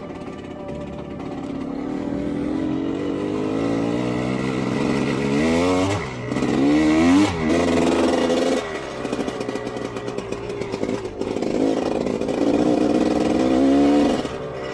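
Dirt bike engine running under way, its revs climbing and dropping several times, with a sharp rise and fall about six to seven seconds in.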